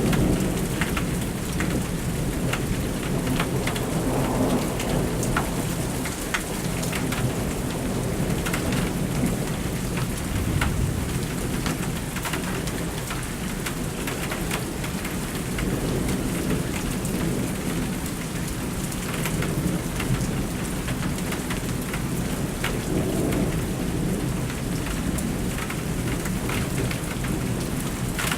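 Heavy thunderstorm: steady rain drumming with sharp drop ticks, under low thunder that rolls and swells several times.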